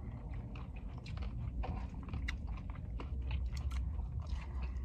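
Close-up chewing of a mouthful of rice bowl: many short, sharp mouth clicks and small crunches, over a low steady rumble.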